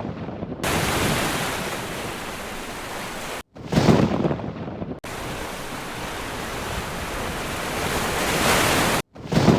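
Heavy rain pouring in a thunderstorm, a steady rushing hiss, with a loud, short thunderclap about three and a half seconds in and another near the end.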